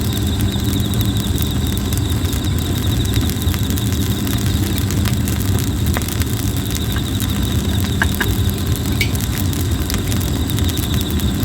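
Plum-wood campfire crackling with a few sharp pops, over a steady low rumbling hum and a fast pulsing insect trill.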